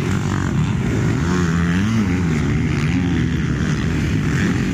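Motocross bike engines running on the track, their pitch rising and falling as the riders open and close the throttle, over a steady low rumble.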